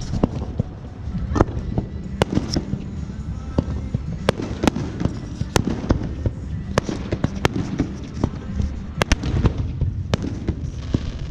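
Fireworks going off in a continuous barrage: many sharp bangs and pops at irregular intervals, sometimes several a second, over a steady low rumble of distant explosions.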